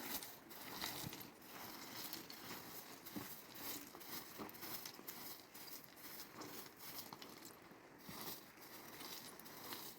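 Irregular rustling and scattered light clicks and knocks, without any steady tone.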